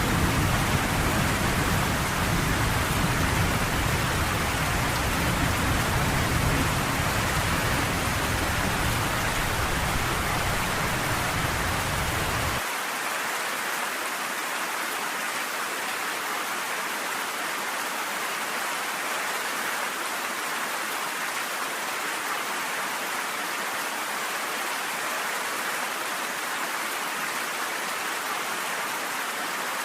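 Steady heavy rain with a low rolling thunder rumble underneath, which cuts off suddenly a little under halfway through, leaving the rain hiss alone.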